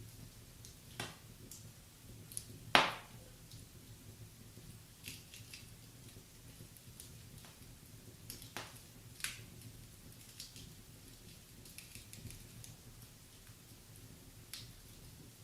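Wood fire crackling in a fireplace: scattered pops and snaps, with one sharp, loud pop about three seconds in, over a faint low hum.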